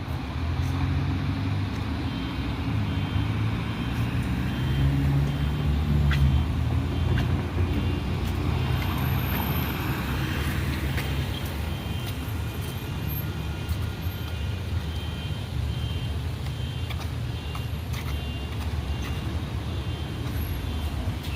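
Light rail train running with a steady low rumble, a little louder about five to seven seconds in.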